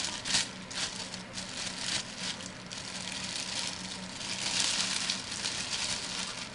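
Plastic wrapper crinkling and rustling irregularly as a resin-cast model truck body is unwrapped and handled, heaviest about two-thirds of the way through, over a faint steady low hum.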